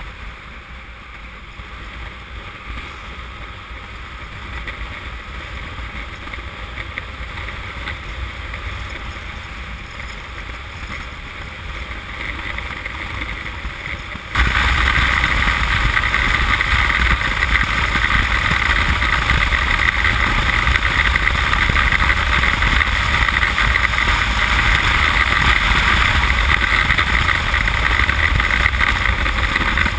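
Wind rushing over the camera microphone on a Honda CM200T motorcycle at riding speed, with road and engine noise beneath. It builds slowly, then jumps suddenly much louder about halfway through and stays there.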